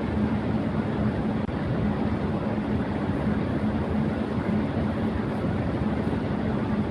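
Electric fan running at high speed: a steady rush of air with a constant low hum. The level dips for an instant about a second and a half in.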